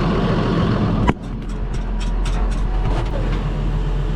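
A farm machine's engine running steadily, with one sharp knock about a second in.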